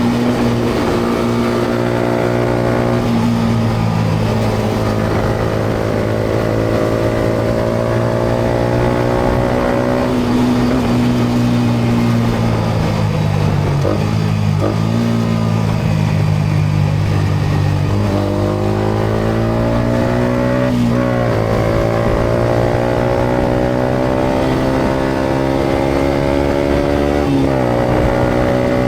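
Yamaha MT-125's single-cylinder four-stroke engine through a GPR aftermarket exhaust, heard from the rider's seat while riding: the engine note climbs in pitch under acceleration and drops at each gear change, several times over, with road noise underneath.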